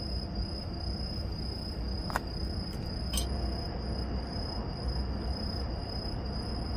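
Steady, unbroken high-pitched song of crickets over a low background rumble, with two light clicks about a second apart a little after two seconds in.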